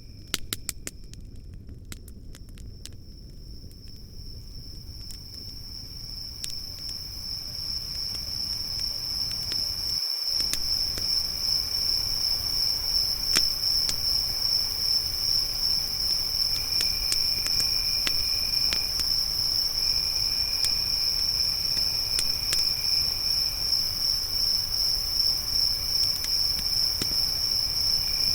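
Crickets chirping in a continuous high trill that fades in over the first ten seconds and then holds steady, with a fainter, lower insect trill coming and going. Campfire crackles and pops over it, with a quick run of sharp pops about a second in.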